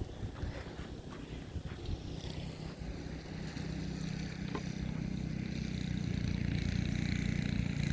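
An engine running steadily, growing louder over the second half.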